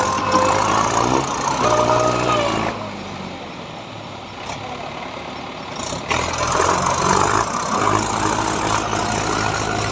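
Mahindra 575 tractor's diesel engine running under heavy load while stuck in mud. It eases off for a few seconds midway, then picks up again about six seconds in.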